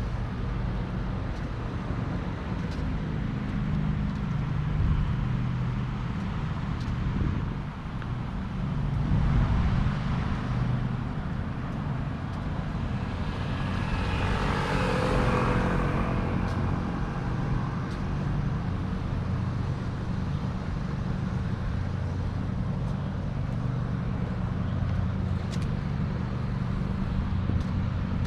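Road traffic: a steady low rumble of passing cars, with one vehicle swelling up and going by about halfway through.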